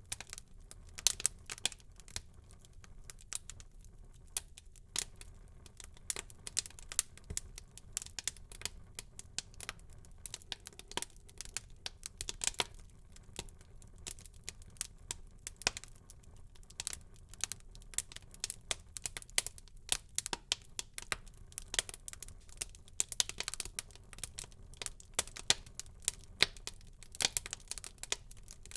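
Wood fire burning in a fireplace: irregular sharp crackles and pops over a faint low rumble of flames.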